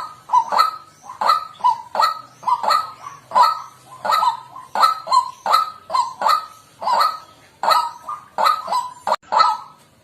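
White-breasted waterhen giving its repeated croaking 'kwak' calls, about two to three a second in a steady run.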